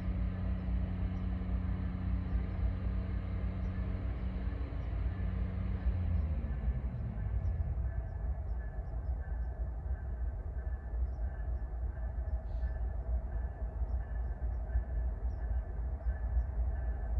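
Freight train running nearby: a steady low rumble with a diesel engine drone that drops in pitch and fades about six seconds in.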